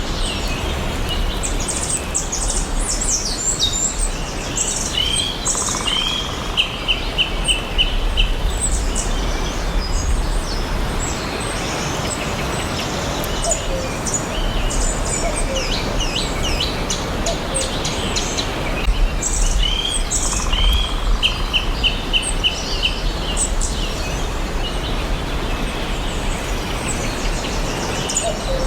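Several songbirds chirping and singing over a steady background hiss, with many short high chirps and whistles. A quick trill of repeated notes comes twice, about fifteen seconds apart.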